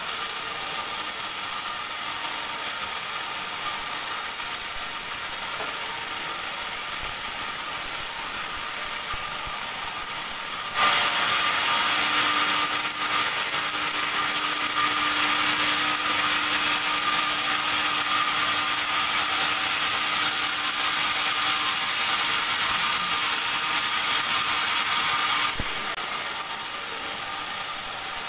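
Band sawmill ripping a teak log into boards. The saw runs steadily, then about eleven seconds in the blade enters the wood and the sound gets louder and hissier with a steady hum underneath. Near the end the cut finishes and the saw drops back to running free.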